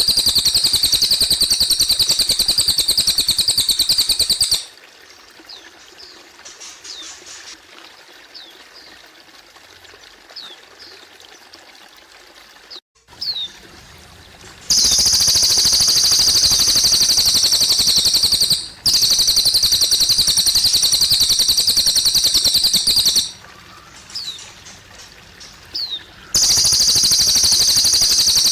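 Cililin bird singing a loud, very fast high trill in long stretches that stop and start abruptly, with short single high chirps and a trickle of water in the pauses.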